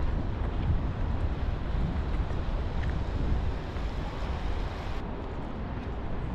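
Steady city street noise in the rain: a low rumble and wash of traffic, with wind buffeting the microphone.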